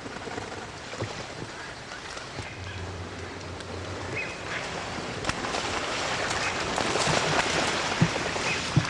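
Rushing of many ducks' wings and splashing water as a flock drops into flooded timber, growing louder in the second half, with scattered sharp splashes.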